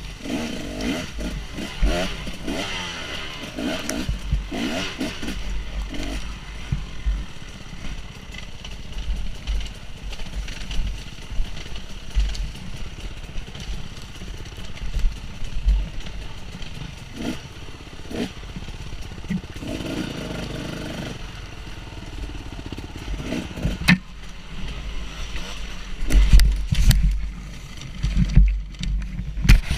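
Dirt bike engine running and revving up and down as the bike is ridden, with heavy rumble on the microphone and a few sharp knocks.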